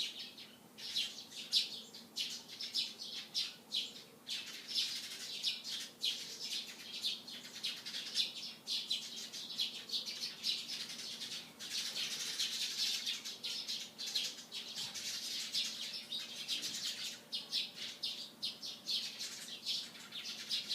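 Sparrows chirping, many short calls overlapping in quick succession, busiest about twelve seconds in.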